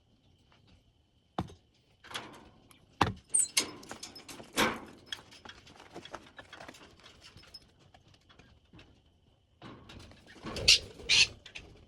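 Scattered knocks, clicks and rattles from a bird cage being moved and handled, with a few short squeaks from the pet birds; the loudest knocks come near the end.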